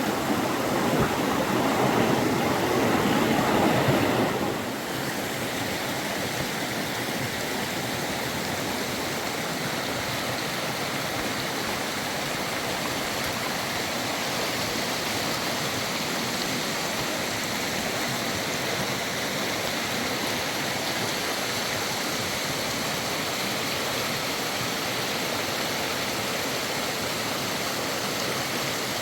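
Steady rushing of flowing river water. For the first four seconds or so there is a louder, fuller surge of water noise, which drops off sharply to the steady flow.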